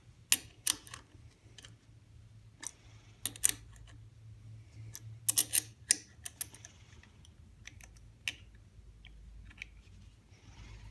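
Irregular sharp metal clicks and clinks, some in quick pairs and clusters, from bolts, T-nuts and a wrench as a vise is bolted down to a drill press table. A faint low hum runs underneath.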